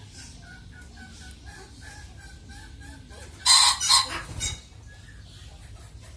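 Chickens clucking in a run of short notes, about four a second, then a loud rooster crow about three and a half seconds in, lasting about a second.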